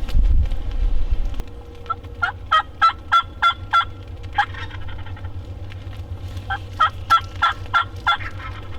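Wild turkey yelping: two runs of short, evenly spaced yelps, about four a second, starting about two seconds in and again near the end. Wind rumble on the microphone at the start.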